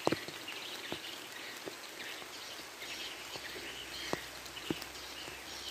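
Steady light rain falling on a pond and the grass around it, with birds chirping faintly and a few sharp ticks scattered through it.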